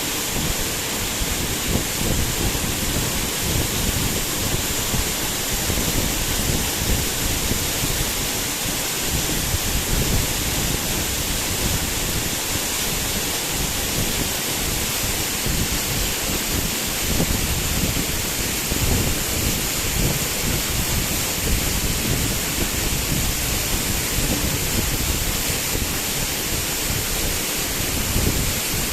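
Waterfall rushing steadily, a constant roar of falling water with a churning low rumble.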